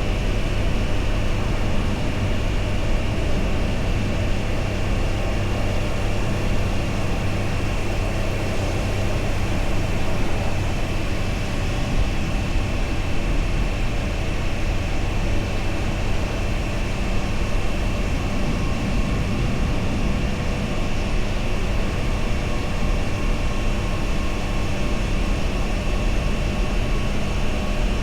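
Triumph Tiger Sport 660's inline three-cylinder engine running at a steady cruise, mixed with wind and road noise.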